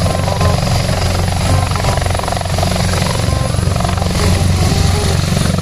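Helicopter rotor sound: a steady, rapid chopping with a heavy low drone.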